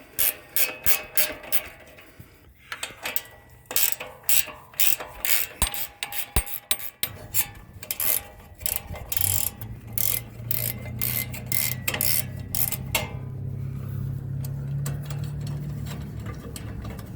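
Hand ratchet wrench clicking in quick runs of several clicks a second, working the skid plate's mounting nuts loose. A low steady hum comes in about halfway and grows louder.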